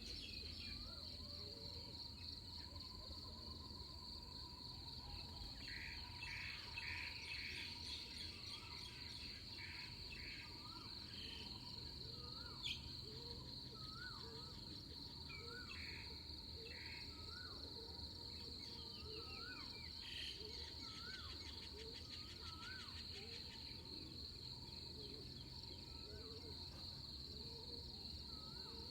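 Faint pre-dawn chorus in the countryside: insects keep up a steady high-pitched drone while birds call short rising-and-falling notes again and again over it, with a few brief chattering bursts. A single sharp click about halfway through.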